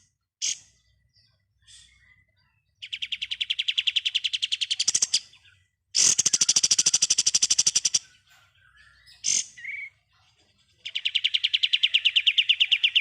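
Kapas tembak songbird singing its rapid-fire 'ngebren' song: three long, fast trills of evenly spaced notes, each about two seconds long, with short chirps between them.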